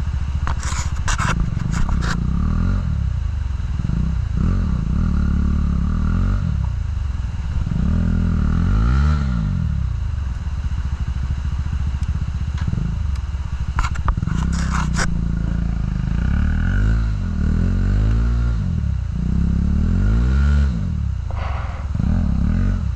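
Off-road motorcycle's single-cylinder engine revving up and falling back again and again as the bike struggles to make headway on the muddy trail. Scraping and clattering from stones under the bike come twice, about a second in and again about two-thirds of the way through.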